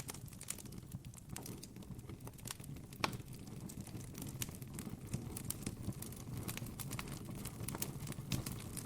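Campfire crackling, with irregular small pops and a sharper pop about three seconds in, over a steady low rumble.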